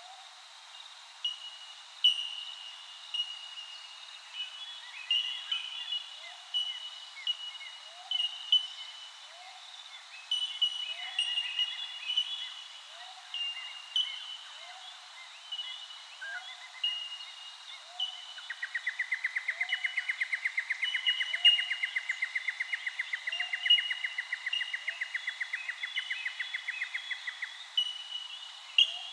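Birds calling: short, high whistled notes repeat about once a second with faint little chirps beneath them, and from about two-thirds of the way in a rapid pulsed trill runs for about nine seconds and then stops.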